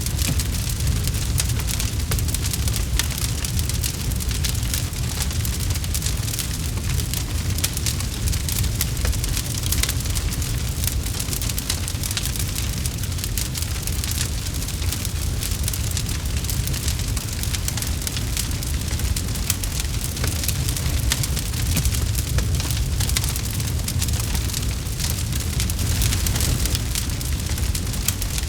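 Campfire burning, with dense small crackles and pops over a steady low rumble.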